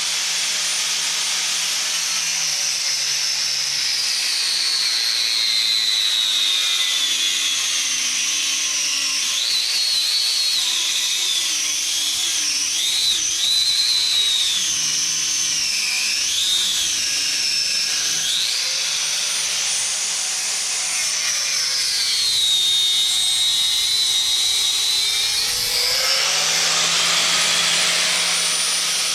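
Power tool cutting through exhaust tubing: a high whine that sags and wavers in pitch as it bites into the metal, picking back up near the end.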